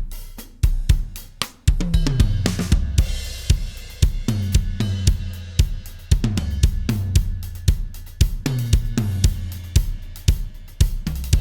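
Recorded acoustic drum kit playing a steady groove: kick, snare, hi-hat and cymbals, with two fills that step down in pitch across the toms. The mix is summed through an SSL BIG SIX console with its G-Comp bus compressor on the main bus.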